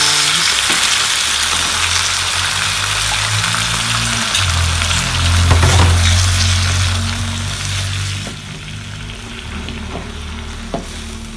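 Soaked rice vermicelli sizzling in a hot oiled wok as it is stir-fried with a spatula. The sizzle eases about eight seconds in, and the spatula knocks sharply against the wok a few times, loudest at the end.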